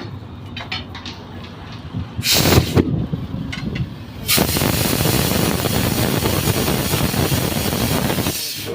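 A tyre bead seated by igniting fuel vapour inside the tyre: a sudden loud whoosh-bang lasting under a second, about two seconds in. About four seconds in comes a steady loud hiss of rushing air, lasting about four seconds and cutting off sharply.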